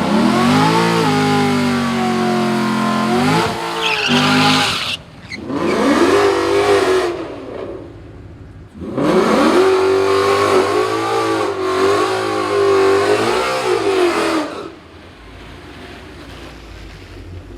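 A car engine revving hard in two long loud runs, the pitch climbing and then holding high with brief dips, a quieter gap between them around the middle. Near the end it falls back to a low idle rumble.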